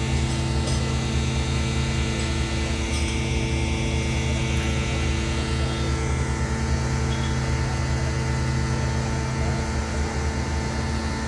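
A steady low machine hum made of several held tones over a faint hiss, with a few faint clicks in the first three seconds.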